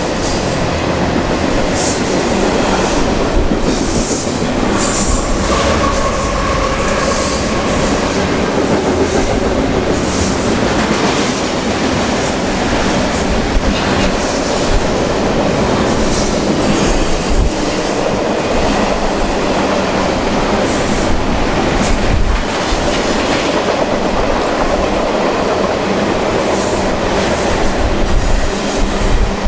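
Freight train rolling past: a steady, loud rumble of steel wheels on rail with irregular clicks and clacks, and a brief faint wheel squeal about five seconds in.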